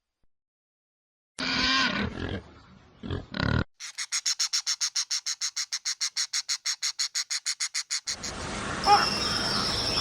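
A large animal's roar, starting about a second and a half in, with a shorter second burst, then a fast, even, high-pitched rattling pulse of about seven beats a second for some four seconds. Near the end it gives way to a steady background hiss with a thin high tone.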